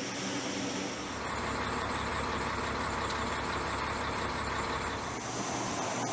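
Steady mechanical running noise of a vehicle or machine, changing character abruptly about a second in and again about five seconds in.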